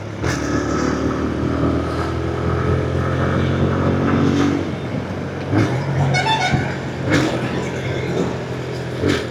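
Motorcycle engine running on the move, its note easing down over the first few seconds, with road and wind noise. A brief high warbling sound cuts in about six seconds in.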